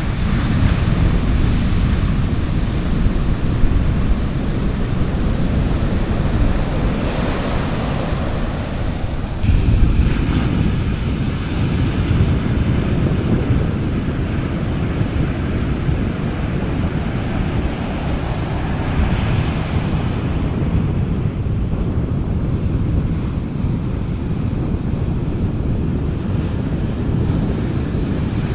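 Gentle sea waves washing onto a beach, a continuous surf wash that swells several times, with a deep rumble that may be wind on the microphone.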